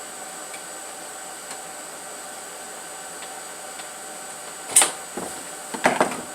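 A steady fan-like whirring noise with a faint high whine, and two loud clattering knocks near the end.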